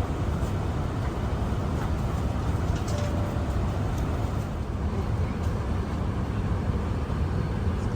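Steady low rumble of airliner cabin noise inside an Airbus A380, the engines and airflow heard as an even roar.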